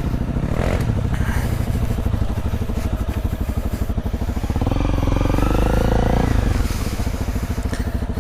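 Honda CRF250L's single-cylinder four-stroke engine running at low speed on a trail, with a throttle rise about halfway through that briefly lifts the revs before dropping back.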